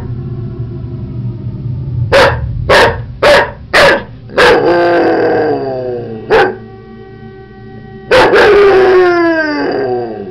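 Dog barking four times in quick succession, then howling; after one more bark it gives a second long howl that falls in pitch toward the end. A steady droning tone sounds underneath throughout.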